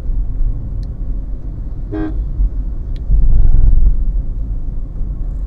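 Car driving on a road, heard from inside the cabin: steady low engine and road rumble, with one brief horn toot about two seconds in. The low rumble swells louder for about a second a little after three seconds in.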